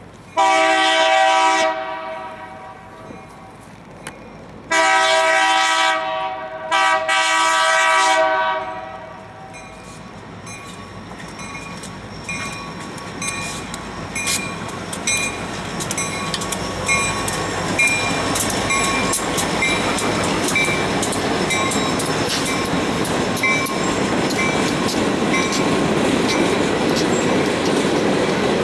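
Air horn of an approaching EMD SD40-2 freight locomotive blowing three blasts, each a chord of several tones: a short one, then two longer ones close together about five seconds later. The train then rolls past, its engines and wheels getting louder, with the wheels clicking at a steady rate.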